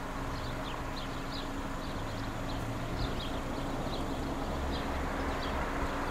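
Outdoor ambience: small birds giving short, high chirps several times a second, over a steady hiss and a low hum.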